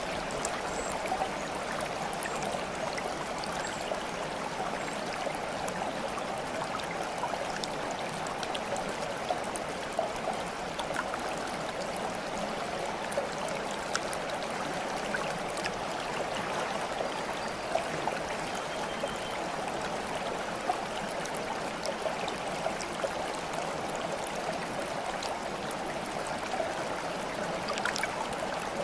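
Steady babbling of running water, with small splashes and drips scattered through it.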